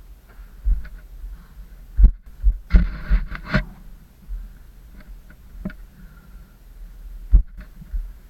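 Irregular dull thumps and scuffs of a caver's body and gear moving over rock, the heaviest knocks about two seconds in and near the end, with a brief scraping rush about three seconds in.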